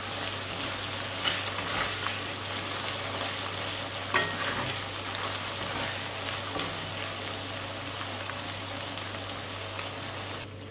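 Lemon pickle of lemon pieces and spice powders frying in sesame oil in an aluminium kadai, sizzling steadily while a wooden spatula stirs it, with a few light clicks and scrapes against the pan.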